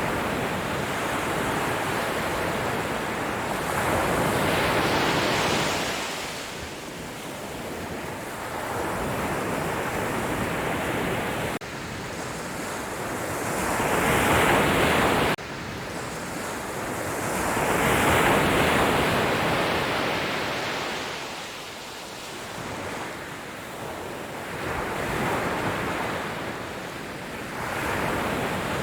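Sea waves breaking and washing up the shore, a hissing surge that swells and recedes every few seconds. One surge breaks off abruptly about halfway through.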